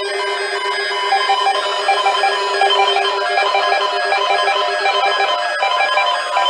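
Weather alert radios sounding their alert alarms: many short electronic beeps at several pitches repeating in overlapping patterns over a steady low tone, which cuts off about five seconds in.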